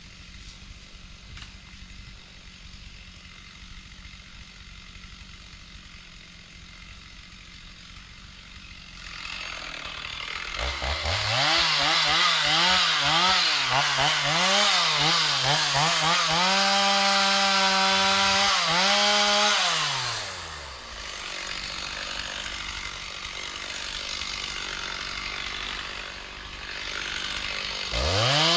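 Two-stroke chainsaw starting about nine seconds in after faint rustling, revving up and down several times, then held at full throttle for a few seconds before dropping back to a lower steady running sound; it revs sharply again near the end.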